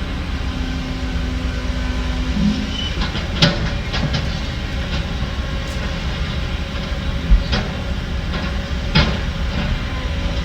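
Heavy diesel construction machinery running steadily, with several sharp metallic clanks about three and a half, four, seven and a half and nine seconds in.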